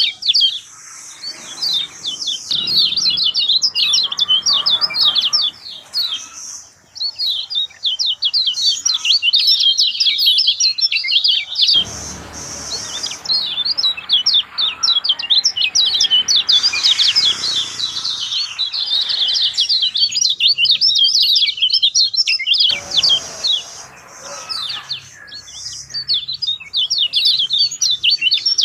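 Kecial kuning (a white-eye songbird) singing in long, rapid runs of high, fast-sweeping chirps with only brief pauses. This is the full, continuous 'gacor' song used to coax other birds of its kind into singing.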